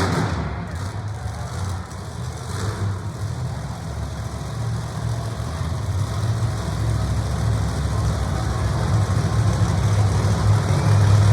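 Monster truck engine running with a low, steady drone that grows louder toward the end.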